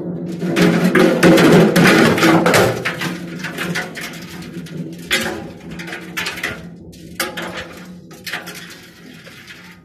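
Beko washing machine running with objects clattering and banging around inside its drum over a steady motor hum. The clatter is heaviest in the first few seconds, then thins out and fades.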